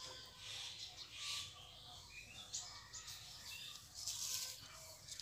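Faint, short bird chirps in the background, with soft rustling as hands spread grated coconut filling over dough on a banana leaf; the rustling is loudest about four seconds in.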